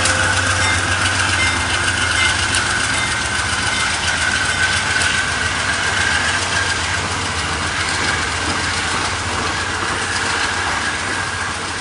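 Shore Line East train departing after a station stop, its GE P40DC diesel locomotive running under power as the train rolls past. A steady low drone with a steady high whine over the rolling noise, with no sudden changes.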